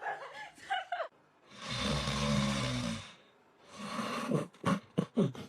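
A single raspy, snore-like breath of about a second and a half with a low rumble in it, followed by a run of quick clicks near the end.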